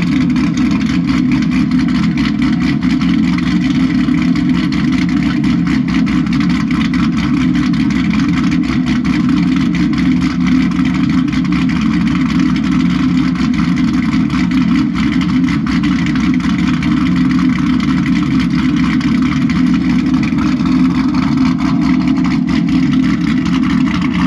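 Cammed 2018 Camaro SS's 6.2-litre LT1 V8 running steadily at idle, with no revs.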